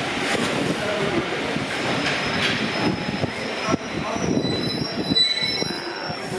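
Railway train rolling through a station, its wheels rumbling on the track, with a high wheel squeal coming in from about two seconds in.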